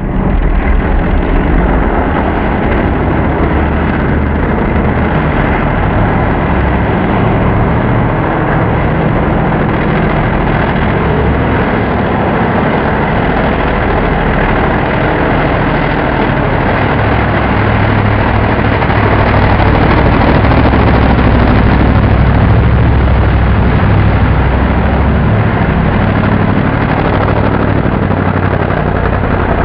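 Mega truck's big blown engine running loudly and steadily, getting a little louder for a few seconds about two-thirds of the way through.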